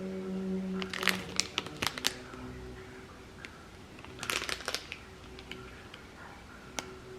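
Crinkling with sharp clicks, in two short clusters: one about a second in and another about four seconds in, with a few single clicks between.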